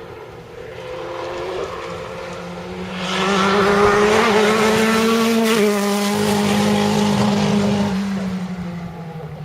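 Historic rally car engine at high revs as the car approaches and passes, growing loud through the middle. The engine note drops once just past halfway, then fades as the car moves away.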